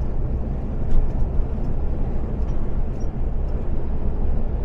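Iveco Stralis 510 truck cruising at about 88 km/h on adaptive cruise control, heard from the cab: a steady low diesel drone mixed with road and tyre noise, with a faint click about a second in.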